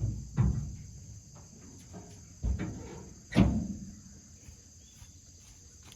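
Four knocks and thumps of gear being handled, two near the start and two about two and a half and three and a half seconds in. Under them runs a steady high drone of insects.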